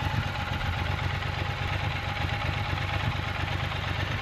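2025 Triumph Scrambler 1200 XE's 1200 cc parallel-twin idling steadily through its stock exhaust, which sounds pretty soft.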